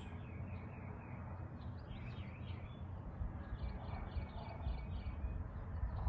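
Small birds chirping: scattered short chirps from about two seconds in, then a quick run of about eight repeated high notes, over a steady low background rumble.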